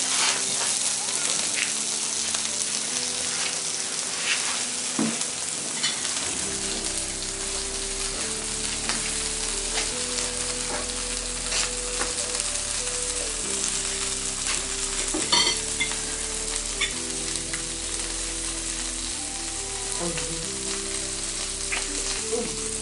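Food sizzling steadily in a frying pan, with a few sharp clicks of a utensil, the loudest about fifteen seconds in. Soft background music with slow, held notes plays underneath.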